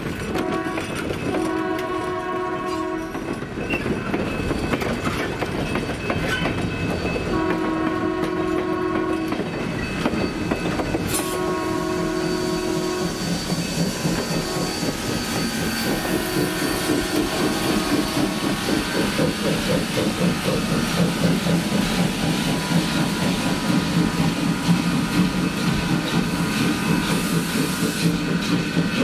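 Passenger train rolling past with wheels clicking over the rail joints, while the locomotive sounds a long, long, short, long crossing signal on its chime horn or whistle. In the last third a rhythmic beat grows louder as the locomotive draws near.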